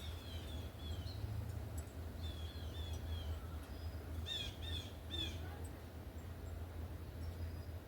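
Small songbirds calling at a feeder: two runs of quick, down-slurred chirps, then three louder, sharper notes about halfway through, over a steady low rumble.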